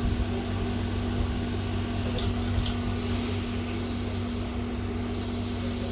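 Steady machine hum with a constant low tone and a whirring fan-like hiss from running workbench equipment.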